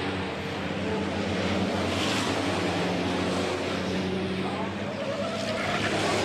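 Racing truck turbo-diesel engine running hard at steady revs, with heavy tyre and wind noise over the engine note.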